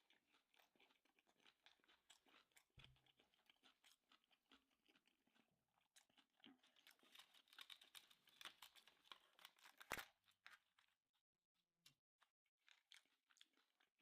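Faint close-up chewing of sushi, with soft irregular crunches and mouth clicks that grow busier in the second half. One sharper click stands out about ten seconds in.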